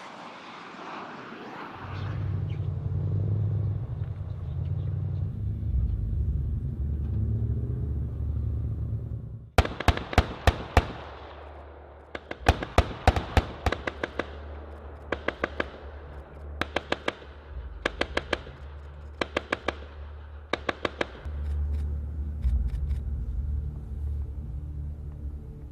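Short bursts of automatic gunfire, each a quick string of sharp reports, starting about ten seconds in and repeating every second or two over a steady low engine rumble.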